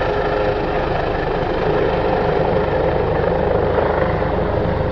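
Helicopter hovering close by, its rotor and turbine running with a steady, loud, fast-pulsing drone.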